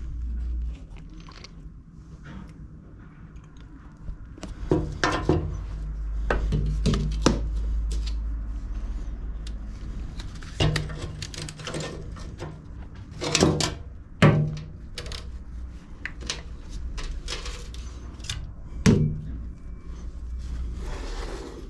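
Scattered knocks and clatters of the mower and its parts being handled during inspection, a few sharp ones standing out, over a low rumble.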